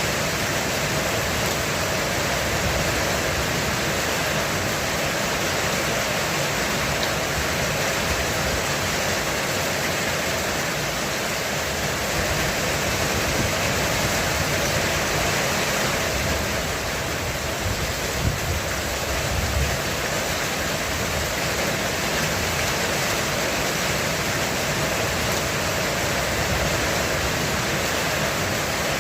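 Heavy rain falling steadily on a roof, a dense even hiss. About two-thirds of the way through comes a brief low rumble of distant thunder.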